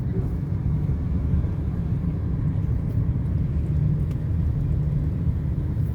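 Steady low rumble of a motor vehicle, even throughout with no distinct events.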